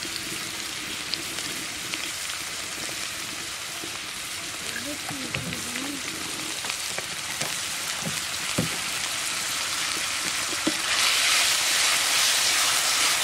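Sliced onions and green chilies sizzling in hot oil in an iron karai, the sizzle getting louder about eleven seconds in as they are stirred with a spatula. A few light knocks of the spatula come between.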